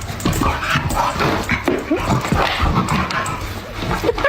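A dog vocalizing in a run of short, irregular calls.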